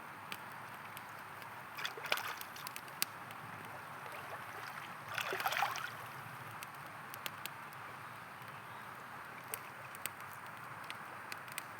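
River water flowing with a steady rush, under the scattered sharp crackles and pops of a wood campfire. About five seconds in, a brief louder gurgling surge rises over the flow.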